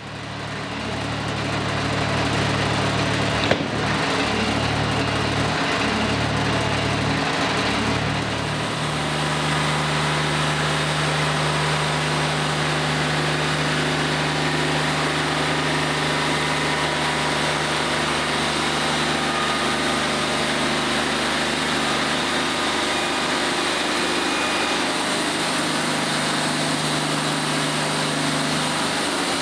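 Wood-Mizer LT40 Wide portable band sawmill running steadily, its band blade sawing lengthwise through a black walnut log. A sharp click comes about three and a half seconds in, and the engine's note shifts once about eight seconds in.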